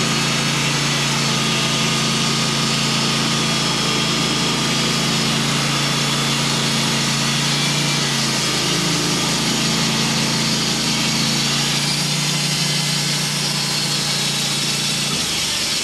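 Band sawmill running steadily under load as its blade cuts through an oak log. Near the end the engine's note drops slightly.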